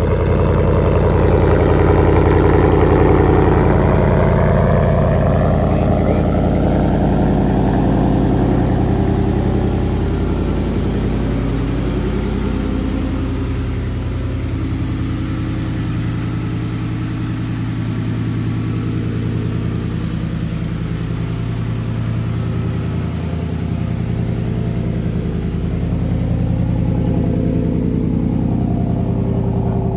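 Ford F-150's 5.0 Coyote V8 idling after a cold start, through a muffler-delete exhaust that keeps the resonator on 3-inch pipe. A steady, even exhaust note that eases a little in level through the middle and comes back up near the end.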